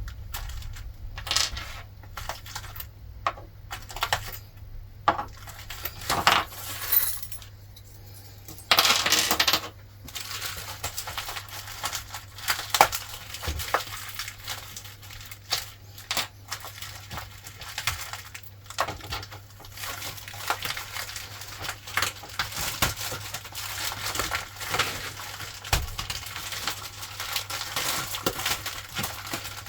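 Small metal parts clinking, tapping and knocking irregularly as a VW air-cooled engine's new rocker arm set is handled and put together, with a short noisy burst about nine seconds in.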